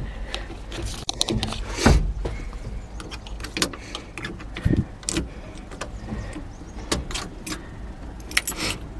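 A series of sharp clicks, knocks and rattles over a low, steady rumble inside a John Deere excavator's cab, from handling in the cab and its controls.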